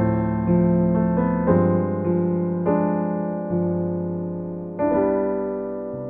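Solo piano playing a slow ballad: sustained chords with notes struck every half second or so, gradually fading as the piece draws to its close.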